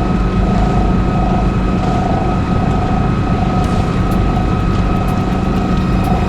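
A sailing yacht's inboard engine running steadily under way: a constant drone with steady tones above it and a faint note that pulses about every half second.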